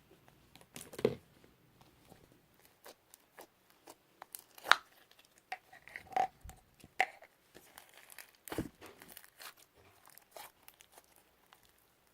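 Hands playing with slime: irregular sticky pops, crackles and tearing sounds as it is pressed and stretched, with several louder pops scattered through.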